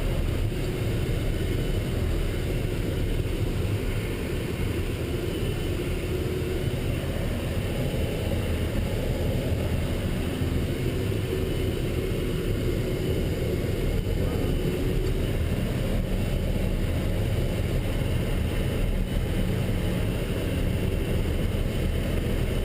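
Steady engine and road rumble of a moving military truck, heard from inside the vehicle.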